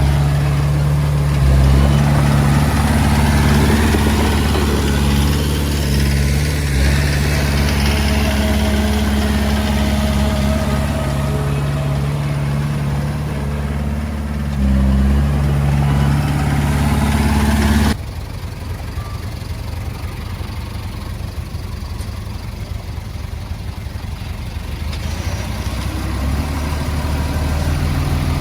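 Diesel engine of a Komatsu D20A bulldozer running steadily at working revs, with a deep, even drone. About two-thirds of the way through the sound drops abruptly to a quieter engine hum, which grows louder again near the end.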